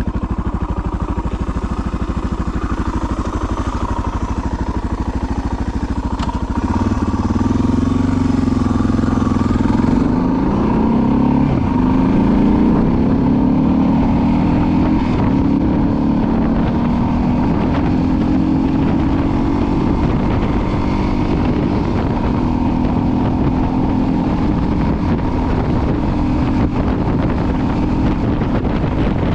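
Suzuki DR650's single-cylinder four-stroke engine running as the bike is ridden. It grows louder about six seconds in and rises in pitch as it accelerates for several seconds, then settles into a steady cruising note.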